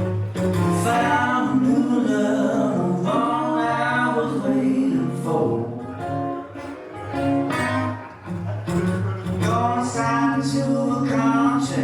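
Live music: a male or female singer's voice over guitar accompaniment with steady bass notes, a song in progress.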